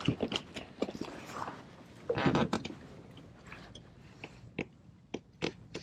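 A largemouth bass being handled and let back into the water from a kayak: scattered knocks and clicks, with a louder splash about two seconds in.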